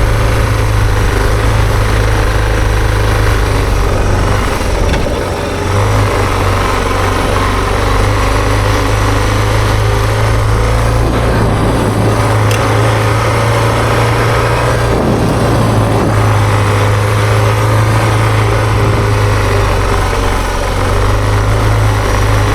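Suzuki DR650's single-cylinder four-stroke engine running steadily as the bike is ridden, with a broad rushing noise over it. The engine note drops briefly about five seconds in and shifts again around fifteen seconds.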